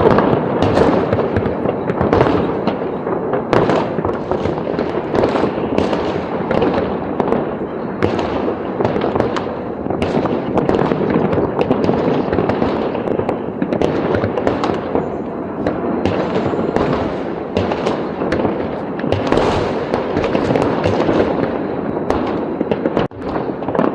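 Large fireworks display: a continuous, dense barrage of bangs and crackles with no pause.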